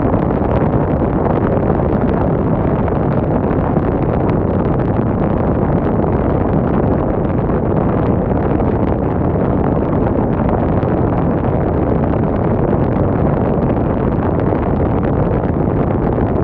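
Wind blowing steadily, a dense low rushing noise that hardly rises or falls.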